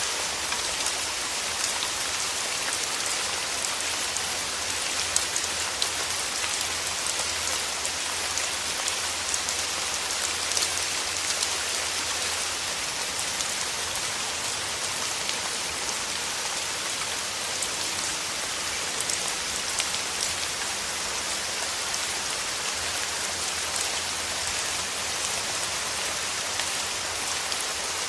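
Steady rain falling on a surface, an even hiss with many separate drop ticks throughout.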